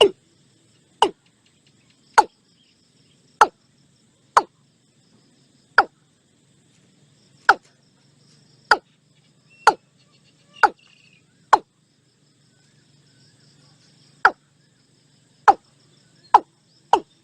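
Watercock calling: a series of short, sharp notes, each dropping steeply in pitch. They come about one every second or so, with a longer gap in the middle, and speed up near the end.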